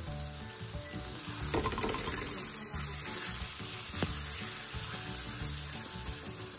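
Eggs, spice powders and mixed vegetables sizzling in a hot frying pan as a wooden spoon stirs and scrapes them around, with one sharp knock about four seconds in. Soft background music plays underneath.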